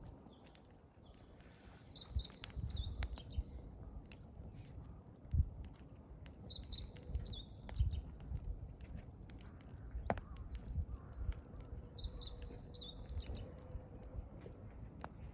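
A wild songbird singing the same short, high phrase three times, over the sharp crackles and pops of a burning wood campfire.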